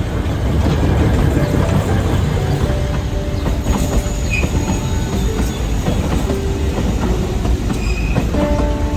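Alishan Forest Railway narrow-gauge train running on the track: a steady, loud rumble of wheels on rails, with brief high squeals of the wheels.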